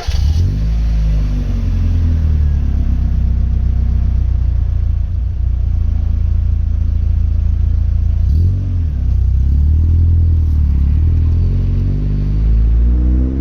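Mazda NA8C Roadster's 1.8-litre four-cylinder engine running through an Integral Kobe N1-spec muffler, a loud exhaust note under way. The engine note dips briefly about eight seconds in, then climbs steadily near the end as the car accelerates.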